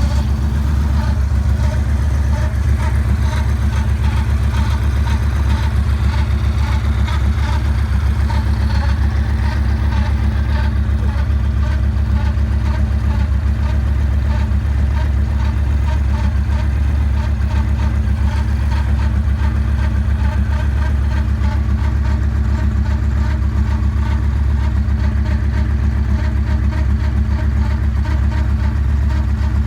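2009 Yamaha Raider's air-cooled V-twin idling steadily, with a light, evenly repeating noise over the idle: the strange noise whose cause the owner cannot identify.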